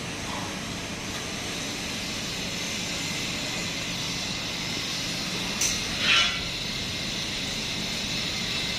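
Steady background noise with two short, sharp sounds a little past halfway through.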